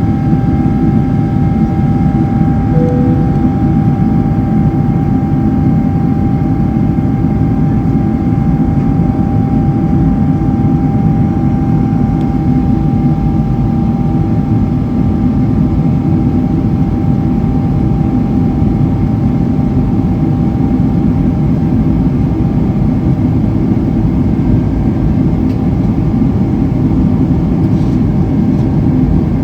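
Steady in-flight cabin noise of a Boeing 777-300ER: a loud, even rumble of air and its two GE90-115B turbofans, with a steady whining tone and several fainter ones over it.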